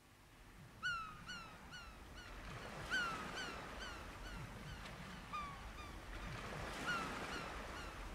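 A bird calling: about a dozen short, faint calls, each a single quick note dropping in pitch, coming in pairs and runs at irregular intervals over a low steady hiss.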